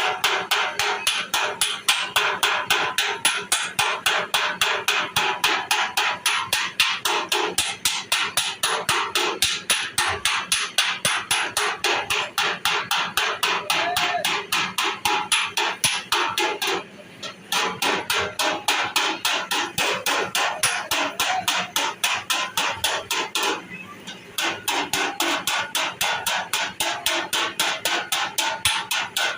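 Hammer tapping out dents in a car's sheet-metal body side panel: fast, even strikes, about four to five a second, stopping briefly twice.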